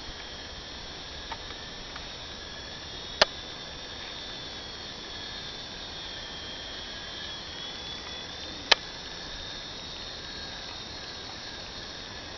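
Small electric RC helicopter's motor and rotor whining steadily, the pitch wavering slightly up and down as it flies. Two sharp clicks, about five and a half seconds apart.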